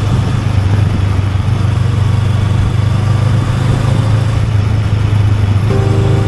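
Honda Rebel 500's parallel-twin engine running steadily with a constant low hum. Background music comes in near the end.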